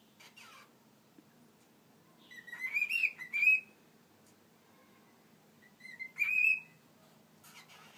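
Cockatiel whistling its song: a run of short rising, warbling notes about two seconds in, then a shorter rising phrase about six seconds in. Faint rustles just after the start and near the end.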